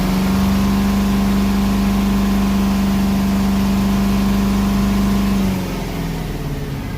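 Detroit 8.2L V8 diesel held at raised RPM with a steady pitch, then dropping back toward idle about five and a half seconds in. The engine smokes at higher RPM, a symptom of its misfire and loss-of-power complaint, which the mechanic takes as suggesting an incomplete burn or bleeding fuel pressure.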